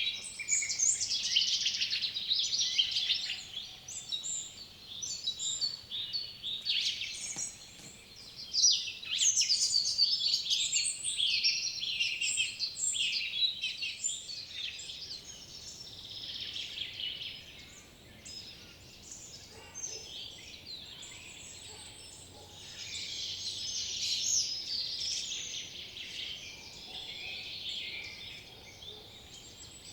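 A chorus of songbirds, many overlapping chirps and trills, busiest in the first half and swelling again near the end.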